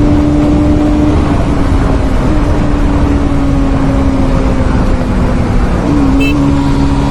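Bajaj Pulsar NS200's single-cylinder engine running at steady high speed, with wind rushing over the microphone. The engine note sags slightly through the middle and dips briefly about six seconds in.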